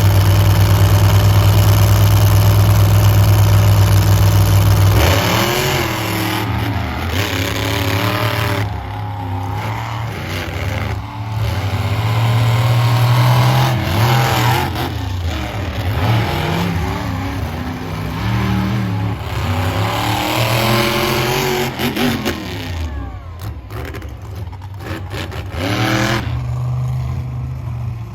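Monster truck engine running loud and steady for about five seconds, then revving up and down over and over.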